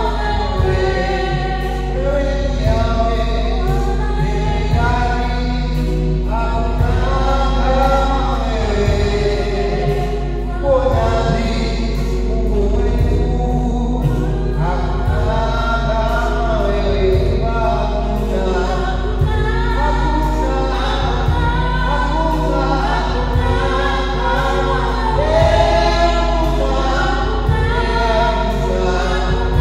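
A group of voices singing a gospel worship song together, over a steady low accompaniment with a regular low beat.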